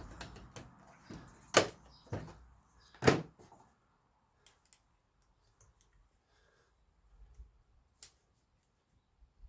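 Several sharp knocks of wooden frame parts and tools being handled on a workbench, the two loudest about one and a half and three seconds in, followed by a few faint clicks and a single sharp tick near the end.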